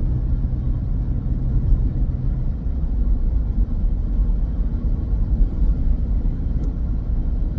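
Steady low road rumble of a small car driving along, heard inside the cabin, with a low hum that fades out a couple of seconds in.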